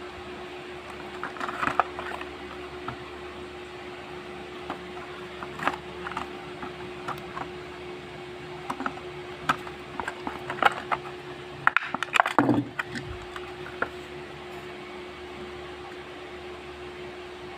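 Handling of a small die-cast toy car: scattered light clicks and crackles, thickest about ten to thirteen seconds in, over a steady electrical hum.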